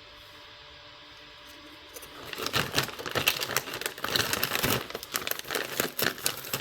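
Plastic snack bag of crunchy pea-based onion rings crinkling and rustling in dense bursts, starting about two seconds in after a quiet stretch.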